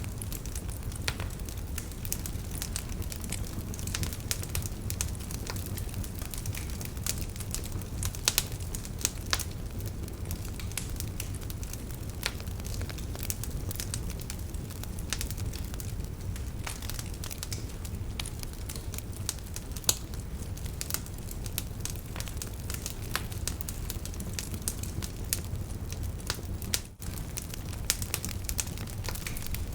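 Wood fire crackling in a fireplace: irregular sharp pops and snaps over a steady low rumble of the flames. Near the end the sound dips for a moment.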